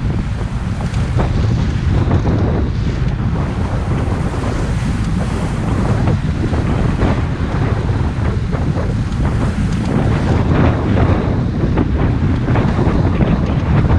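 Wind buffeting the microphone on a motorboat under way, with water rushing and the hull slapping over small waves in short, irregular hits.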